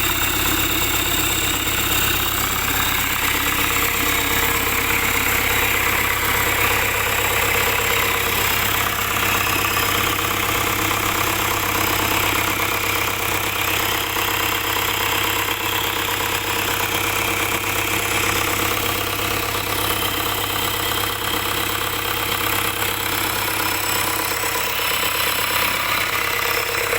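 Isuzu dump truck's diesel engine idling steadily.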